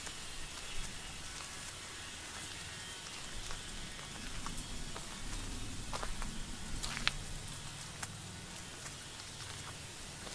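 Bush ambience beside a road: a steady hiss, with the low rumble of road traffic swelling in the middle and fading again. A few sharp ticks land a second apart just after the middle.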